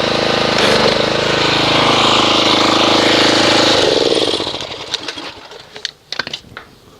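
Pressure washer running while the foam cannon sprays, then cutting off about four seconds in as the trigger is released. A few light clicks and taps follow.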